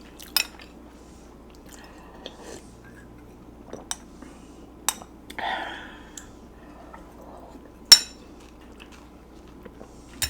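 A spoon clinking against a soup bowl several times, the loudest clink about eight seconds in, with a short slurp of pozole broth about five and a half seconds in.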